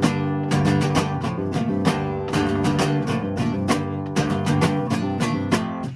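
Instrumental music: guitar strumming chords at a steady pace between sung lines.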